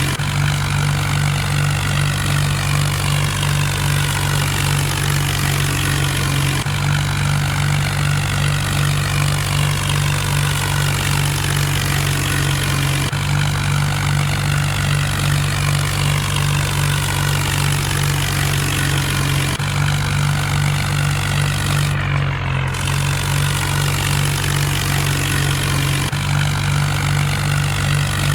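Mahindra Arjun tractor's diesel engine running at a steady speed, its note shifting slightly every six or seven seconds.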